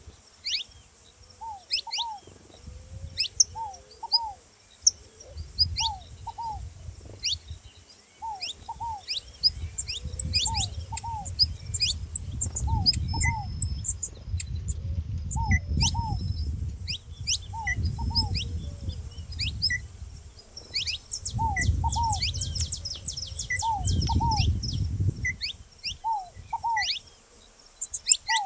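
A saffron finch gives sharp, high chirps over and over while a ground dove coos in paired notes, a pair about every second and a half. Low rumbling noise comes and goes beneath them.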